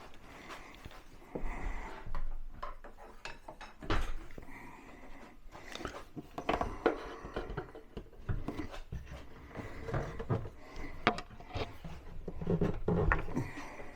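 Scattered knocks, taps and clicks of a wooden cabinet door being handled and fitted onto its soft-close hinges, with rustling between them and a sharp knock about four seconds in.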